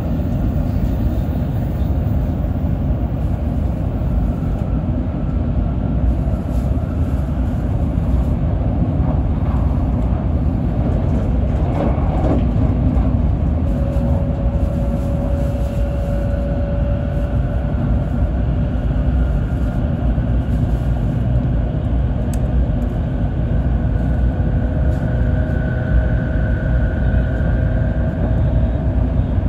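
Shinkansen at speed, heard from inside the passenger car: a steady rumble of wheels on rail, with faint whines that slowly rise in pitch. A brief surge of rushing noise comes about twelve seconds in.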